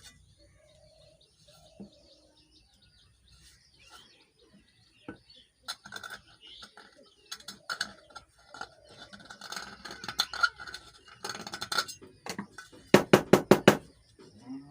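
Scraping, clinking and tapping on the metal bearing housing of a ceiling fan as it is cleaned out, with scattered sharp clicks and a quick rattle of several clicks near the end.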